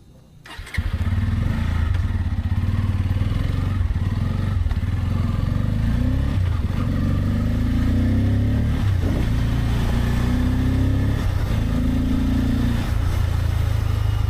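Bajaj Pulsar N250's single-cylinder engine starting up about a second in, then running steadily as the motorcycle rides off, its pitch rising and falling with the throttle.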